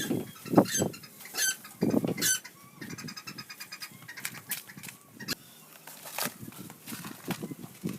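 Chickens clucking, with short high-pitched chirps and a quick run of repeated notes a few seconds in.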